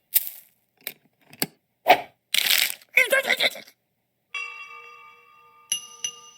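A quick run of short, sharp sound effects (clicks, knocks and a brief rush) in the first few seconds, then ringing, chime-like tones that start about four seconds in and are struck three more times near the end.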